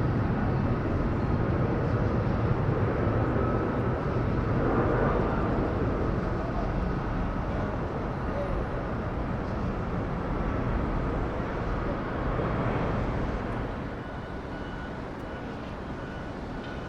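Twin turbofan engines of an Embraer E-175 regional jet on takeoff, a steady rumble that slowly fades and drops off noticeably near the end.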